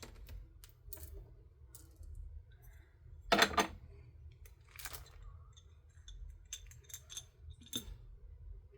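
Small plastic tools and containers being handled and set down on a table: a scatter of light clicks and clatter, with one louder clatter about three and a half seconds in.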